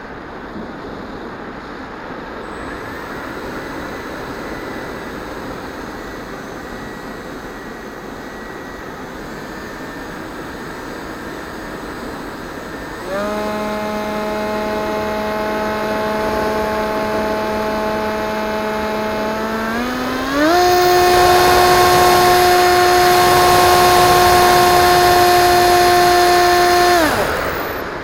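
Electric motor and propeller of an EasyStar 2 RC model plane: a steady rushing noise with a faint whine, then the motor whines up sharply about 13 seconds in, steps up to a higher pitch about 20 seconds in as the throttle is opened further, and cuts off about a second before the end.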